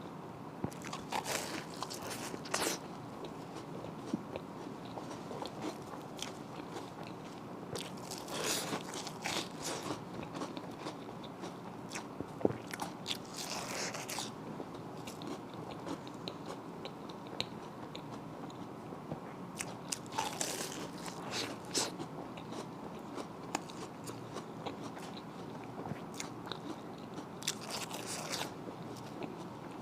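A person eating close to the microphone: crunchy bites and chewing, with clusters of crisp crackling every few seconds between quieter stretches of chewing.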